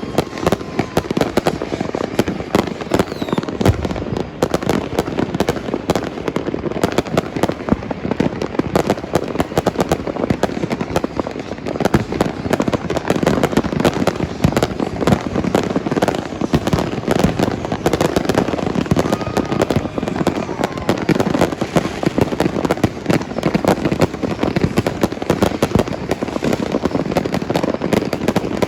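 Continuous barrage of fireworks and firecrackers: dense, overlapping pops and bangs with no pause at all.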